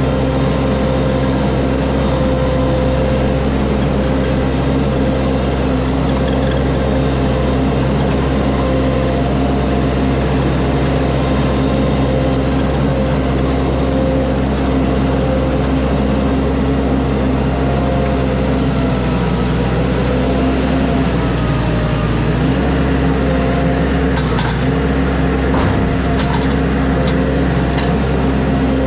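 A vehicle engine running steadily, its pitch dipping briefly about two-thirds of the way through, with a few sharp clicks near the end.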